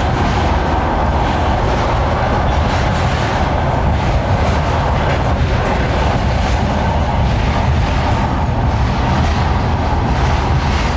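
Steady rumble and rushing noise of a moving train, with faint irregular clicks from the track.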